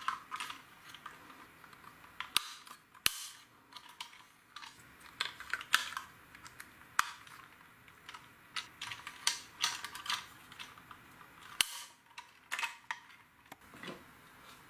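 LEGO plastic pieces being handled: irregular sharp clicks and short clatters, one after another.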